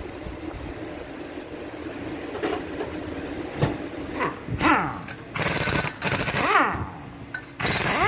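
Pneumatic impact wrench firing in several short bursts, its pitch spinning up and dropping off with each one, over a steady mechanical hum; the bursts start about halfway through.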